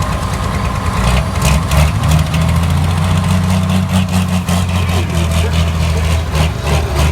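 Pro stock pulling tractor's diesel engine running, a loud, low, rough note that firms up and grows stronger about a second in.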